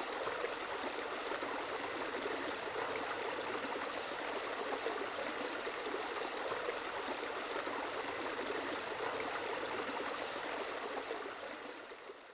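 Steady running water, like a stream, fading out near the end.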